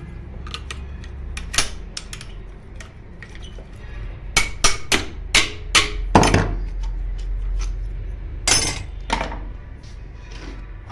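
Sharp metallic knocks and clinks of hand tools striking and working on a small 0.5 hp electric water pump as it is opened up, a cluster of quick strikes in the middle, over a low steady hum.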